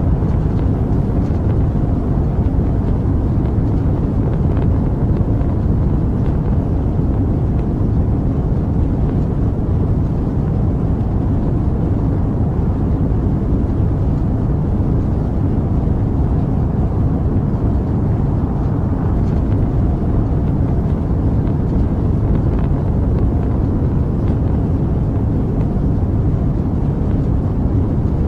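Rocket engine noise: a steady, deep, unbroken roar with no change in level.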